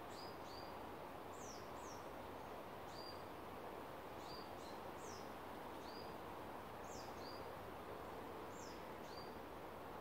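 A small bird calling again and again: short, high chirps, many sliding down in pitch, about one or two a second, over a steady background hiss.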